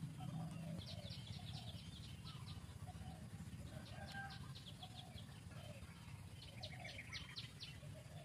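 Birds calling: three runs of rapid high trills, about a second each, with softer lower calls between them, over a steady low rumble.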